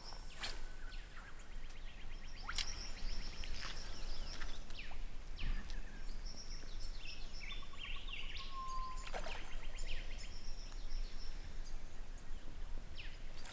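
Several birds calling: quick downward-sweeping chirps and short trills, scattered through a steady low outdoor background.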